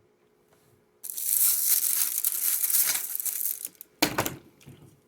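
Crinkling and rustling, like packaging being handled, for about three seconds, followed by a single sharp thump.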